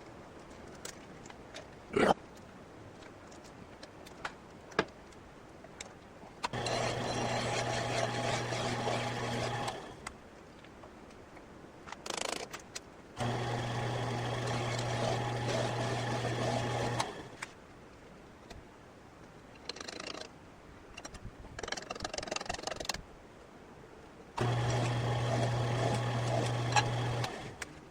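An electric shop machine tool runs steadily in three separate bursts of a few seconds each, with a low motor hum under a hiss of cutting or spinning, and stops between them. Small metallic clicks and knocks come in the quiet gaps, the loudest about two seconds in.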